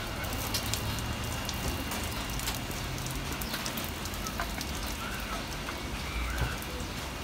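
Rain falling steadily, an even hiss of rain with scattered sharp drip ticks.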